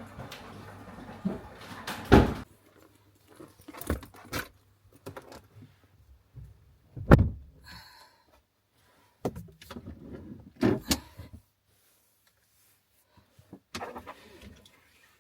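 Handling noises: a few separate knocks and clunks of objects being moved or set down, the loudest about seven seconds in, with quieter rustling and rattling between them.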